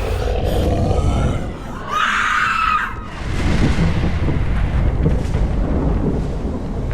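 A high scream lasting about a second, starting about two seconds in, over a low rumbling trailer soundtrack.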